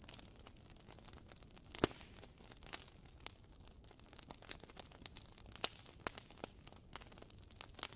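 Wood fire crackling, with irregular sharp pops and snaps, the loudest pop about two seconds in.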